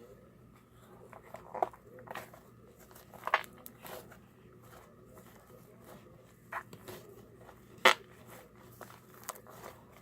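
Homemade slime being squished and kneaded by hand, giving irregular short, sharp clicks and pops.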